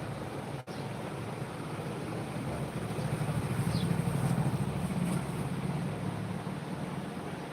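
A low engine or motor hum running steadily, swelling louder about three to five seconds in, then easing off.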